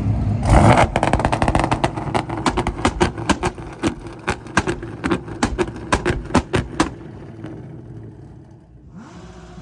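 Car exhaust popping and banging in a rapid, irregular string of loud cracks over a steady engine note. It lasts about six seconds, then dies away to a low engine rumble.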